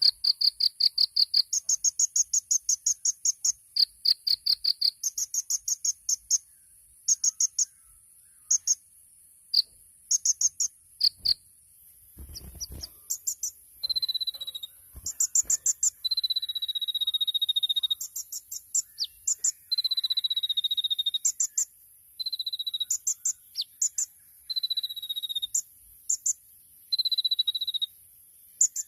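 Kolibri ninja sunbird singing: fast, high trills of short repeated notes in bursts, then from about halfway long whistles that fall slightly in pitch, alternating with quick trills. A steady high hiss runs underneath.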